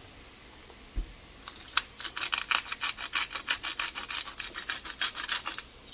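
A soft knock, then garlic salt shaken from a shaker over the frying pan in quick rhythmic shakes, about seven a second, starting about a second and a half in and stopping just before the end.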